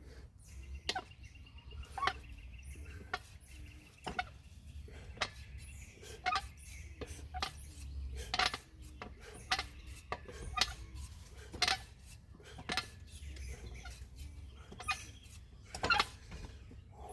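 Metal weights clinking with a short ring about once a second, in time with the repetitions of a chest exercise, over a low steady hum.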